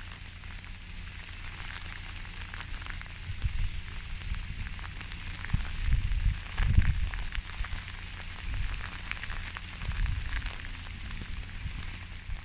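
Light rain pattering, a steady crackling hiss of many fine drops, with uneven low rumbling underneath that is loudest about seven seconds in.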